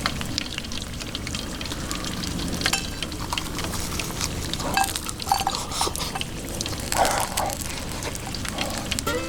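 Food frying in a hot pan, sizzling and crackling throughout, with a couple of brief louder sounds about five and seven seconds in.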